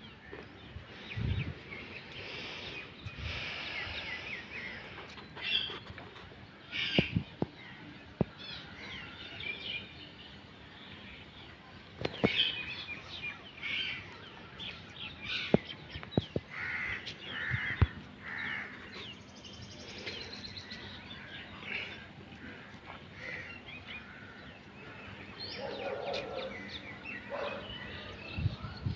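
Birds calling and chirping in short scattered bursts, with a few sharp clicks standing out above them.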